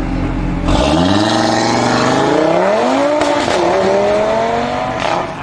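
A high-performance car engine accelerating hard, its pitch climbing, dipping briefly at a gear change about three seconds in, then climbing again; it cuts off suddenly near the end.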